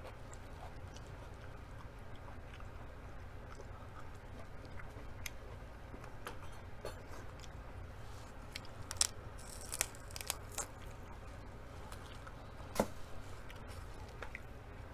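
Close-up chewing and crunching of raw green beans and lettuce leaves, with crisp crunches scattered through, thickest about nine to ten and a half seconds in, and one sharp crunch near the end.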